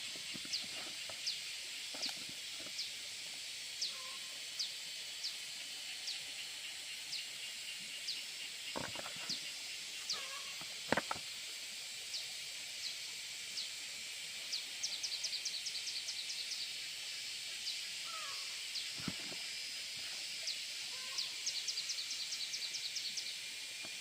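Outdoor rural ambience of calling insects or other small animals. A steady high hiss runs under short chirps about once a second, with two rapid ticking trills, one about two-thirds of the way in and one near the end. A few brief knocks also sound.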